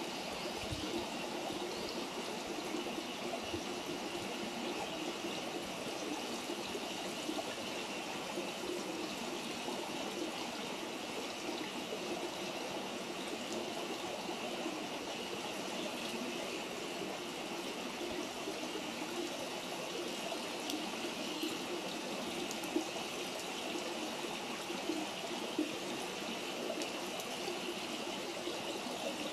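Steady rush of running water, with a couple of faint sharp pops near the end.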